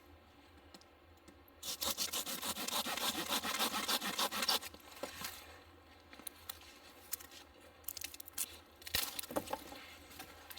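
A rough rasping, rubbing scrape lasting about three seconds, then a shorter one near the end.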